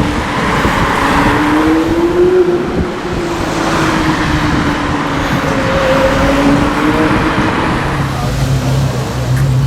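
Porsche Carrera GT's V10 engine with a straight-through exhaust running on the road, its pitch rising and falling gently over road noise; a lower steady hum comes in near the end.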